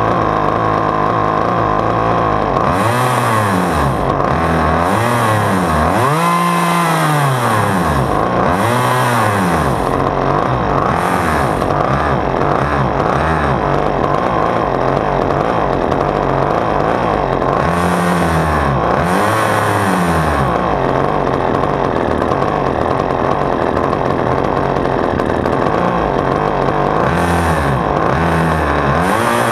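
Husqvarna T435 top-handle chainsaw's small two-stroke engine running, idling steadily between repeated blips of the throttle that rev it up and let it fall back.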